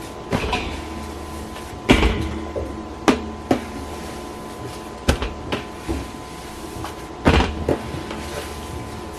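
Hands kneading a large batch of slime: irregular sticky pops and slaps, with the loudest about two seconds in and again past seven seconds, over a faint steady hum.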